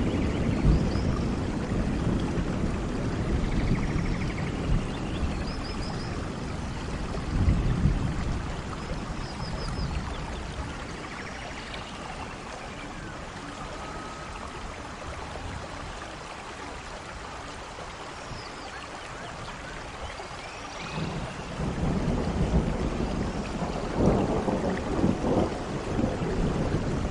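Steady rain with rolling thunder: a rumble at the start, another about seven seconds in, and a longer rumble building from about two-thirds of the way through to the end.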